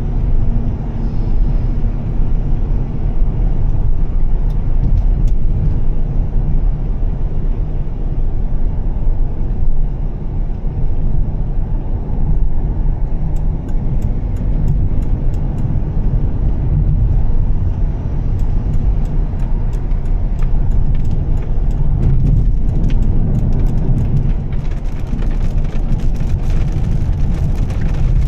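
Volvo S60 T6's turbocharged straight-six with a Heico aftermarket exhaust, driving at a steady pace: a continuous deep drone with tyre and road noise. From about halfway on there are scattered light ticks on top.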